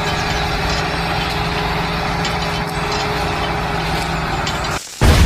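A small motor, of the kind that drives a DIY mini tractor model, running steadily with an even hum. Just before the end it drops out briefly and a sudden, much louder booming sound begins.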